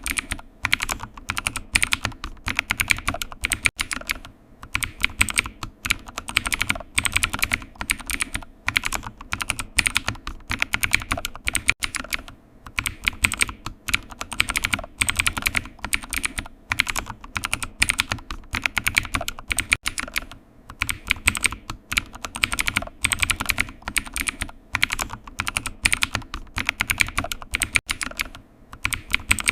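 Computer keyboard typing: a steady stream of key clicks with short pauses between bursts.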